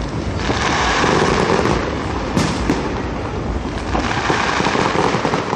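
Aerial fireworks bursting: a continuous crackle of exploding shells, with a sharp bang a little over two seconds in.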